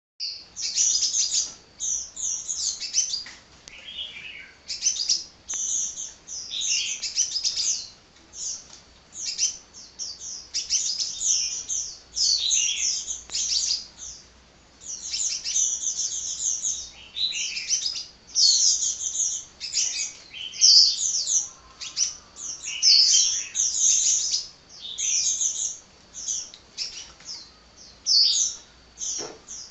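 Sunbird (kolibri) singing a rapid, high-pitched chattering song almost without pause, in bursts of quick chirps about a second long separated by brief gaps.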